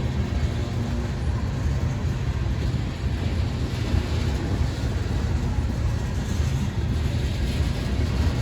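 Mixed freight train rolling past at a grade crossing, a steady low rumble of wheels on rails.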